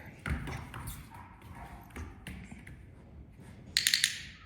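Light taps and shuffling from a puppy working at a food bowl during a treat reward, with a short, loud rattle a little before the end.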